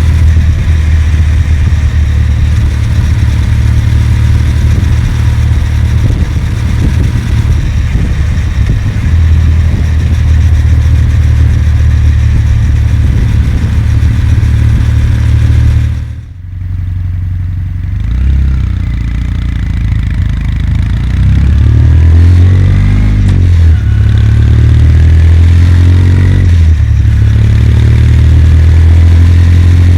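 Kawasaki W800's air-cooled parallel-twin engine running steadily while riding. About halfway through the sound drops away for a moment, then the revs climb and settle back to a steady run.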